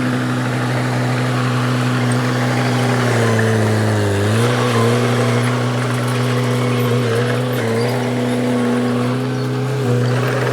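Bulldozer's diesel engine running steadily, its pitch sagging briefly and recovering about four seconds in.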